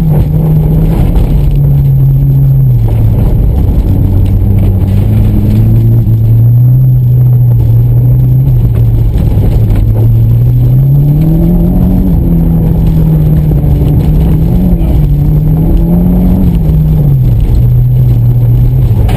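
2014 Mitsubishi Lancer Evolution's turbocharged four-cylinder engine under load, heard from inside the cabin while driven hard over grass and dirt. The engine note drops about two seconds in, climbs again about ten seconds in, and falls near the end, over a steady low rumble.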